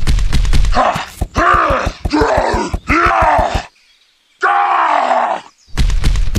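Deep, strained groans of heavy effort, two long ones with a short silence between, dubbed over a figure lifting a toy train car. A fast rattling clatter comes before them and again near the end.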